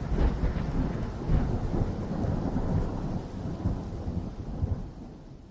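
Storm sound effect: a low thunder-like rumble with a hiss like rain, fading out steadily toward the end.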